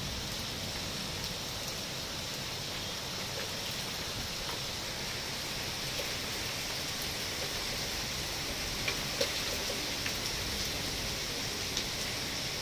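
Heavy rain falling steadily, an even hiss throughout, with a few brief taps in the second half.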